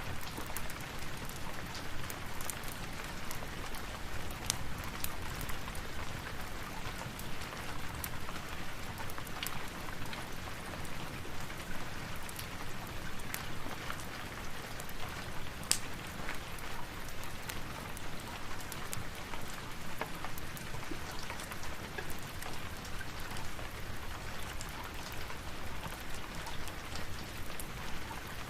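Steady rain falling, a constant hiss with many small sharp drop ticks scattered through it.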